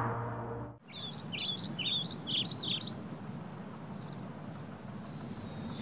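A bird chirping in a quick run of short notes that bend up and down in pitch for about two seconds, over a steady background hiss. The tail of a music piece cuts off just before the chirping starts.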